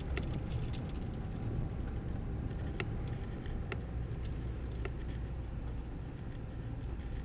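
A vehicle driving slowly down a dirt drive: a steady low rumble of engine and tyres, with scattered small clicks and rattles.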